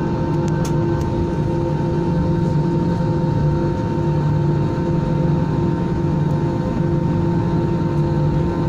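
Airbus A320 jet engines running with a steady drone, several held tones over a low rumble, not rising or falling. A few faint clicks in the first second.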